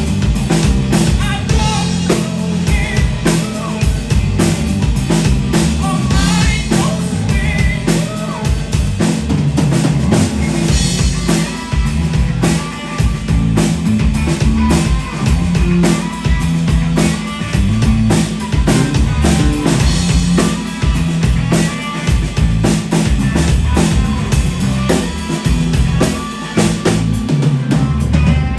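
Live band playing a song: a drum kit beats out a steady rhythm under sung vocals.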